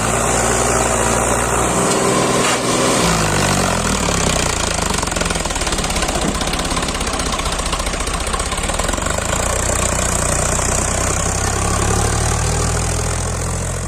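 Sonalika DI 745 tractor's diesel engine running hard and steadily, its revs shifting about two to three seconds in, as the tractor struggles stuck in soft sandy soil.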